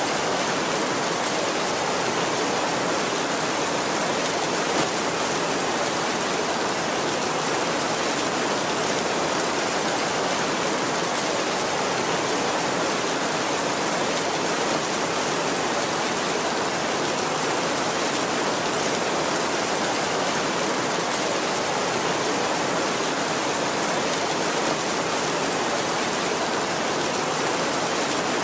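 Heavy rain falling steadily on a tin roof, an unbroken dense hiss with no thunder.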